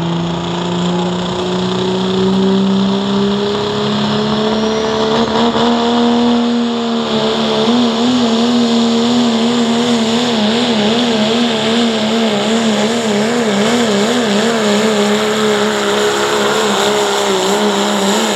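Turbocharged diesel pulling truck at full power, dragging the sled down the track. The engine note climbs over the first several seconds, then holds high while wavering rapidly up and down.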